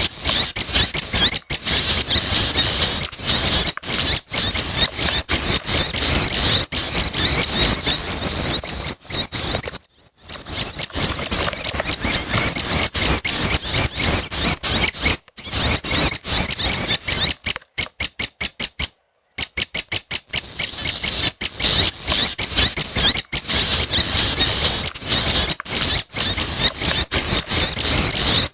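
Young prinias (prenjak chicks) calling: a rapid, high-pitched chattering of many short notes. It carries on almost without stop, with brief breaks about a third of the way in and a little past halfway.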